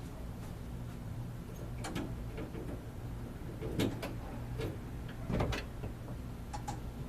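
A few scattered short clicks and knocks, about five, over a steady low hum.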